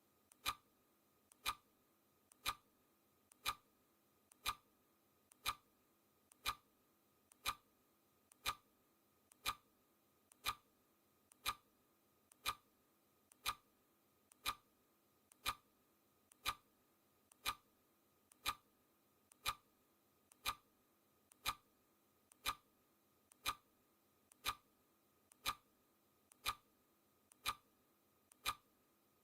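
Clock ticking steadily, one tick a second, with a faint click just before each louder tick, keeping time for a countdown timer.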